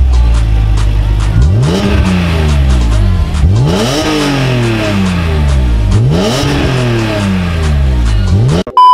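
BMW E46 M3's S54 straight-six free-revved three times: each rev climbs quickly and then sinks slowly back down.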